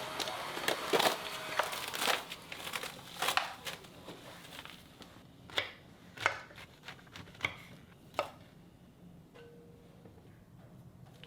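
A kitchen knife chopping on a cutting board in quick, irregular strokes, then a few separate knocks before it goes quiet.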